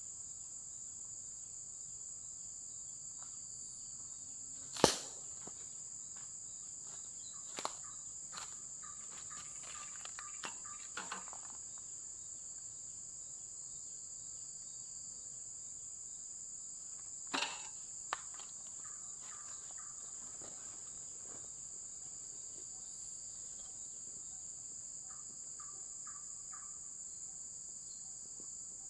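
Steady high-pitched chorus of insects, typical of crickets, going on without a break. A single sharp knock stands out about five seconds in, and a few lighter clicks and knocks follow later.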